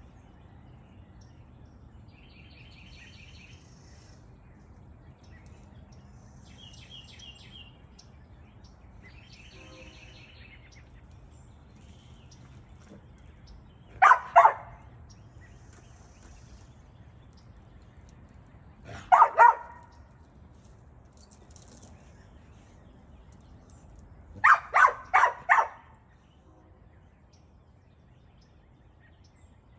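Dog barking in short barks: a pair, then another pair a few seconds later, then four quick barks in a row. Faint bird chirps come in between.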